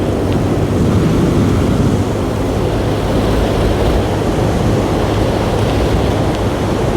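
Motorcycle being ridden at road speed: a steady engine hum under heavy, constant wind rush on the helmet-mounted microphone.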